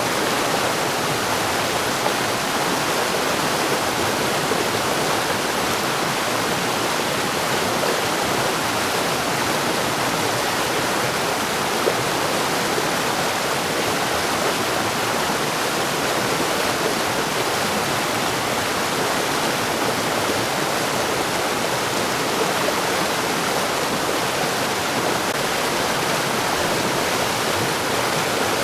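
Mountain stream: water rushing and splashing over rocks in a steady, unbroken flow.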